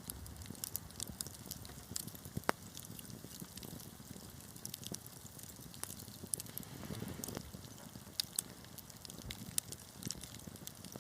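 Wood fire crackling: irregular sharp pops and snaps over a low steady rustle of burning logs, with one louder snap about two and a half seconds in.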